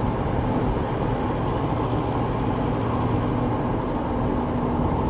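Steady engine and road noise of a moving vehicle, heard from inside: an even drone with a constant low hum and no sudden events.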